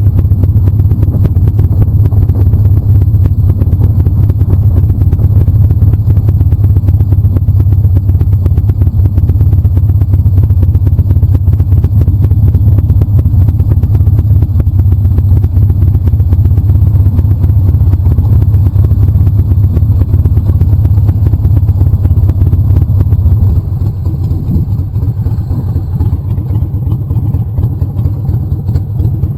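Motorcycle running on the road, heard as a steady low rumble of engine and wind on the rider's microphone. The level drops a little about three quarters of the way through.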